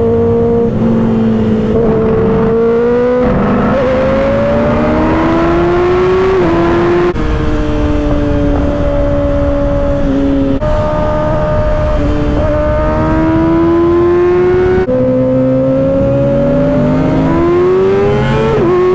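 2024 Kawasaki ZX-6R's 636 cc inline-four running through an M4 aftermarket exhaust, accelerating hard through the gears: the engine note climbs steadily, then drops back at each upshift, about four times, with a steady lower engine hum underneath.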